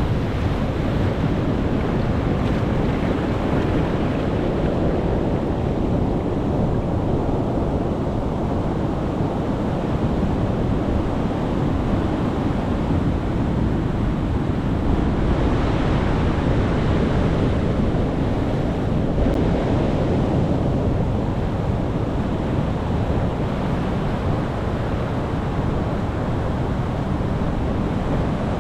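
Sea waves washing on the shore: a continuous rush of surf that swells brighter and fuller for a few seconds around the middle.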